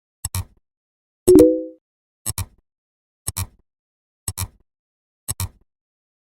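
Short double clicks of a sound effect repeating about once a second. About a second in comes a single louder, brief pitched tone that dies away within half a second.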